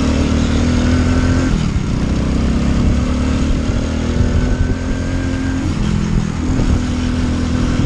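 A small 125cc motorcycle engine running steadily, its note dipping briefly and recovering about two seconds in and again about six seconds in.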